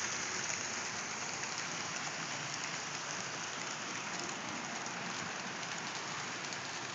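HO-scale model train running along the layout's track: a steady rushing hiss of wheels on rail and motor, with faint fine clicks.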